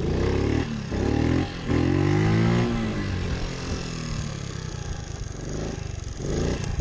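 Pit bike engine revved hard in three surges over the first three seconds, pitch climbing and falling each time, then running lower before another short rev near the end: throttle bursts to lift a wheelie.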